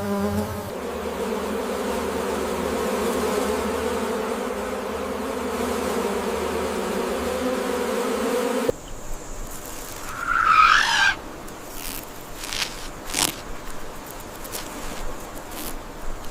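A flying insect's steady wing buzz, cutting off abruptly a little past halfway. After it come a short chirping call and a few scattered clicks.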